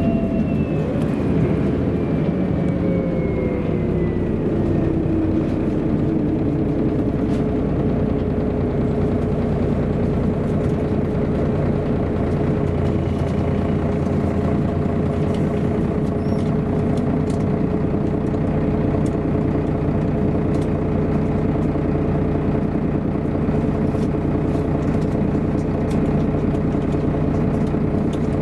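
MAN A23 NG313 articulated city bus running on the road, engine and drivetrain heard from on board. Its whine falls in pitch over the first few seconds, then holds a steady tone over a constant road rumble.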